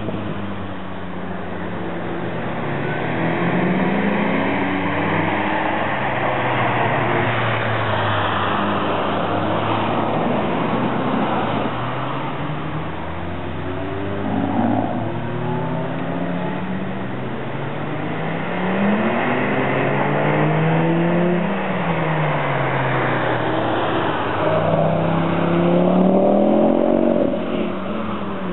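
Volkswagen Golf Mk2's engine revving up and dropping back again and again as it is driven hard through the corners of a wet track. A steady rushing noise runs underneath.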